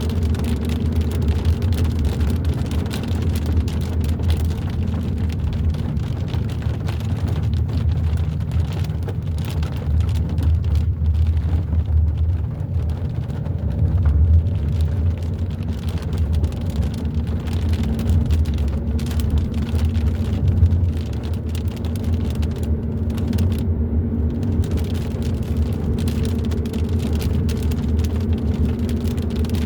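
Hyundai i30 N Line driving at a steady pace: a continuous low rumble of engine and road noise, with many scattered light ticks throughout.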